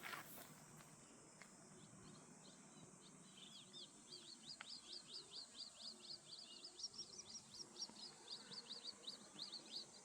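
A small songbird calling faintly outdoors: a long run of short, high chirps repeated three to four times a second, starting about three seconds in.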